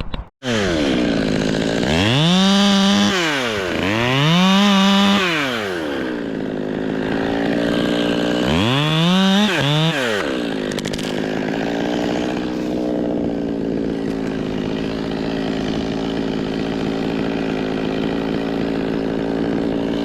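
Two-stroke chainsaw revved up to full throttle and back down three times, then held at a steady high speed.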